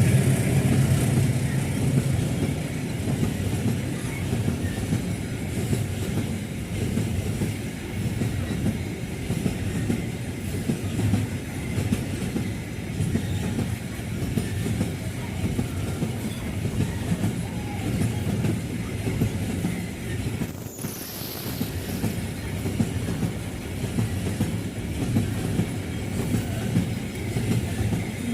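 A long train rolling steadily past, its wheels clattering over the rail joints with a continuous low rumble. About two-thirds of the way through there is a brief high screech that falls in pitch.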